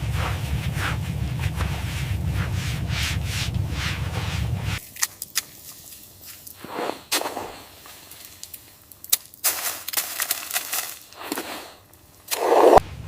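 Steady wind rumble that cuts off suddenly about five seconds in, followed by scattered sharp cracks and knocks and a loud short burst near the end.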